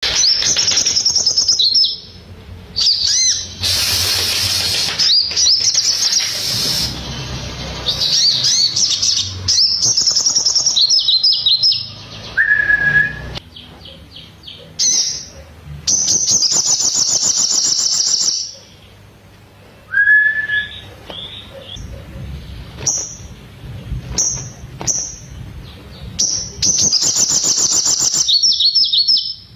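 Crimson sunbird (sogon) singing a loud, high-pitched song of rapid trills and chirps that mimics the bar-winged prinia (ciblek). It comes in bursts of a few seconds with short breaks, and a few lower single notes sound around the middle.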